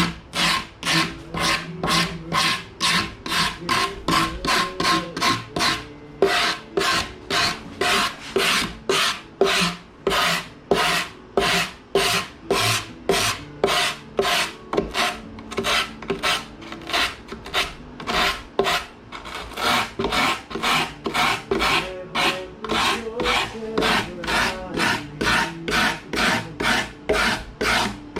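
Hand rasp or file worked in quick back-and-forth strokes, about three a second, in a steady rhythm.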